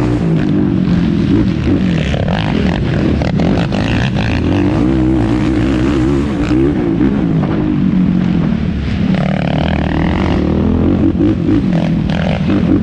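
Yamaha YFZ450R quad's single-cylinder four-stroke engine revving up and down under race throttle, the pitch climbing and dropping every second or two as it accelerates and shifts.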